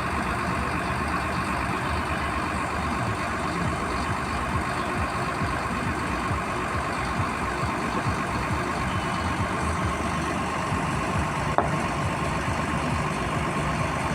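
An engine idling steadily, with a single sharp click about two-thirds of the way through.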